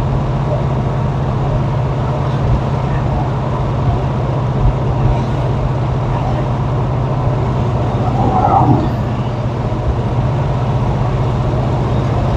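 Pontiac Grand Prix V8 engine running with a steady low drone, with road noise, as the car is driven. The engine runs smoothly with no exhaust-leak tick after the exhaust repair.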